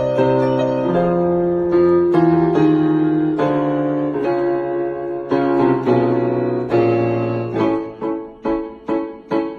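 Piano music: sustained chords changing about once a second, then short detached chords repeated about three times a second near the end.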